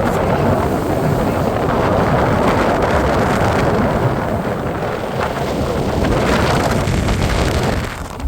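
Wind buffeting the microphone on a moving boat, over the steady rumble of the boat and its passage through the water. The noise eases briefly near the end.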